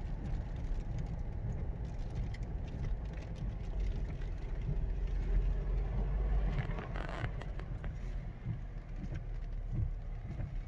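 Road noise inside a moving car: a steady low rumble from the engine and tyres, with a hiss of tyres on wet pavement. About seven seconds in the hiss briefly swells louder.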